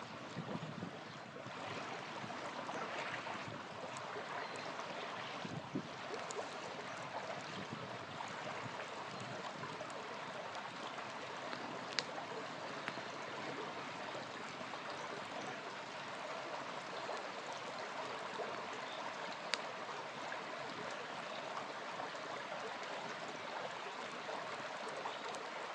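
Small river flowing steadily, with two sharp pops from a crackling campfire, one about halfway through and one about three-quarters through.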